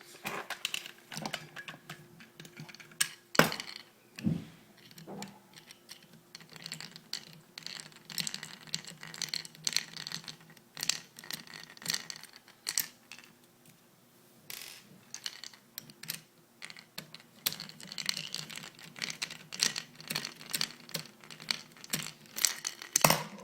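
Irregular small clicks, taps and scrapes of a screwdriver, metal screws and parts being handled as screws are taken out of the bottom of an airsoft AK-47 electric rifle. A faint steady hum sits underneath.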